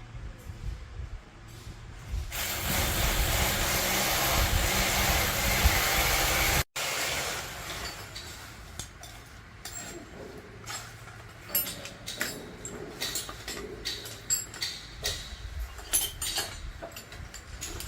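A loud steady hiss lasts about four seconds and cuts off abruptly. It is followed by scattered light clicks and clinks, like tools handled against metal.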